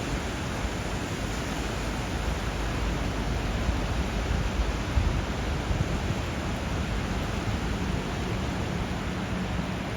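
Steady rush of water where a river flows into the sea, with surf, an even unbroken wash of noise.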